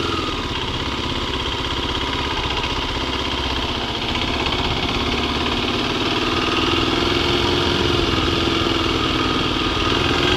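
Kawasaki KLX250's single-cylinder four-stroke engine running steadily at low revs, its pitch starting to rise near the end.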